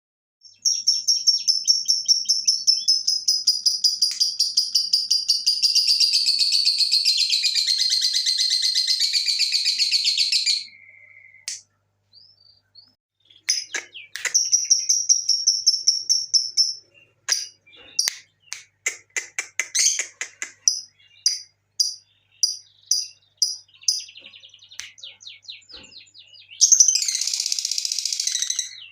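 Lovebird singing: a long, fast chattering trill for about ten seconds, then a string of separate sharp chirps, and another dense trill burst near the end.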